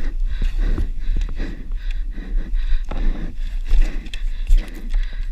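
Heavy, irregular breathing close to the microphone over a steady low rumble, as of a person panting hard.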